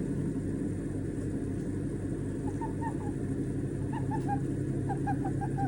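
A white-bellied caique chirping softly in short, slightly falling notes, several a second, from about halfway through, over a steady low hum.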